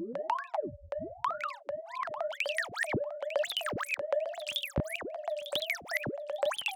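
Synthesized R2-D2-style robot chatter: a steady electronic tone that keeps swooping quickly up and down in pitch. From about two seconds in it breaks into a rapid string of chirps and clicks.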